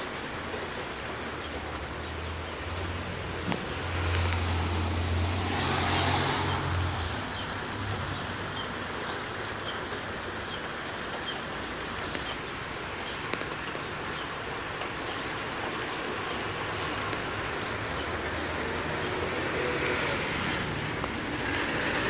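Steady rain falling. A low rumble swells and fades between about three and seven seconds in, and faint high chirps repeat in the middle stretch.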